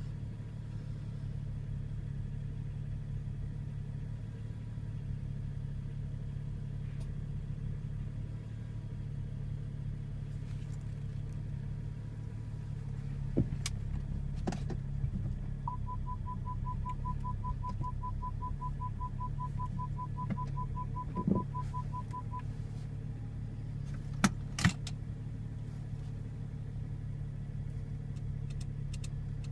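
BMW 335i's N55 turbocharged straight-six running steadily at idle on a cold start, the condition in which the owner reports a strange rattle or ticking. About halfway through, a rapid electronic chime beeps for several seconds. A few sharp clicks sound around it.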